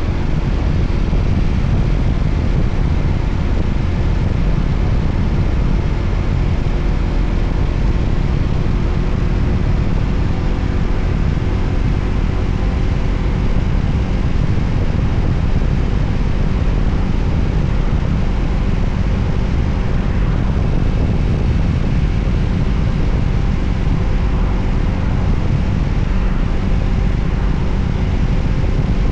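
Voge 300ACX motorcycle riding at a steady speed: a heavy, steady wind rumble on the microphone with the engine's even drone underneath.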